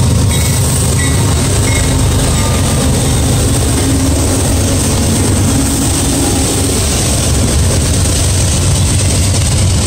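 CSX freight train passing close by: the diesel locomotives' engines run past, followed by the steady rolling noise of autorack cars on the rails.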